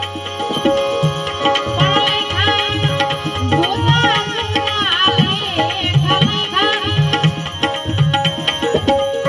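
Gujarati santvani bhajan music: hand drums keep a steady rhythm under a held, wavering melody line.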